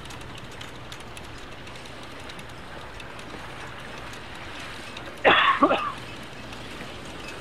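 Steady wind and water noise aboard a sailing boat, with one short, loud, sudden sound a little past the middle.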